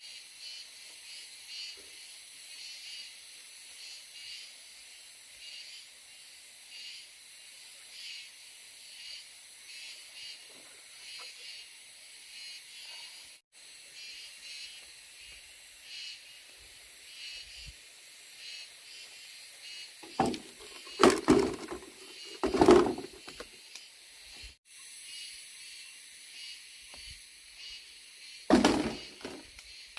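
Insects chirping steadily in a high, pulsing drone. A few short, louder low sounds come about two-thirds of the way through and again near the end.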